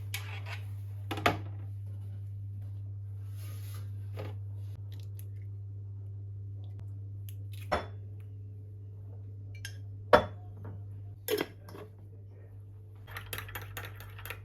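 Dishes and cutlery clinking every few seconds, several separate sharp knocks and then a quick run of lighter clinks near the end, over a steady low hum.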